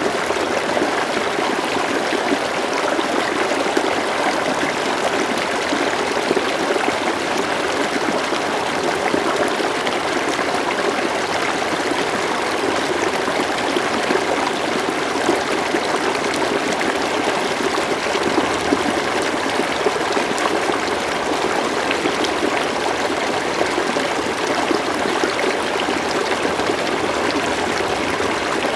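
River water flowing steadily over and around stones, a continuous rushing and babbling with small splashes flickering through it.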